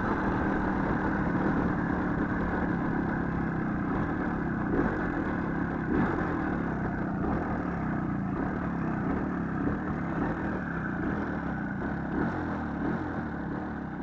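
Small motorcycle engine running steadily with slight swells in speed.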